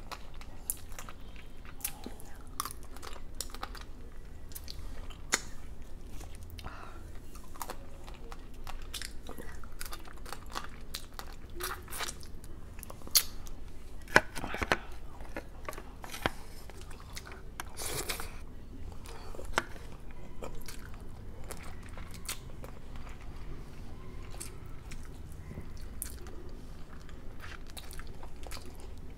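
A person chewing and crunching on garlic butter shrimp and crab, with irregular sharp clicks and cracks throughout, over a steady low hum.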